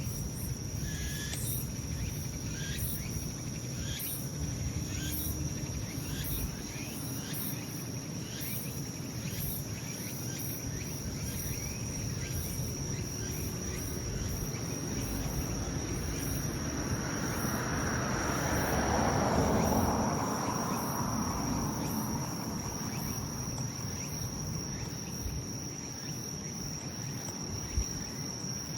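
Autumn insects singing: a steady high trill with short chirps repeating over it. About two-thirds of the way through, a broad whooshing swell rises and fades.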